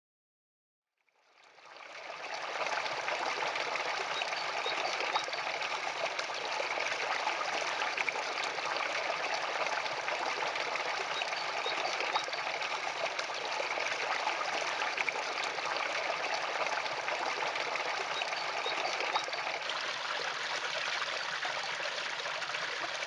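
Running water, a steady trickling or stream-like flow, fading in over the first couple of seconds and then holding even.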